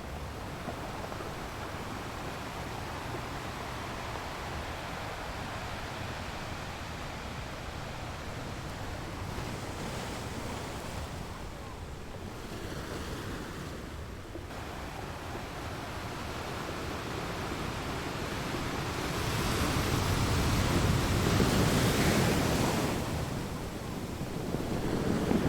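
Ocean waves breaking on a shore: a steady wash of surf that swells into a louder crash about twenty seconds in, then starts building again near the end.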